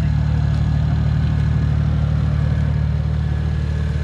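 BMW 335i's N54 straight-six, fitted with an On3 single-turbo kit, idling steadily.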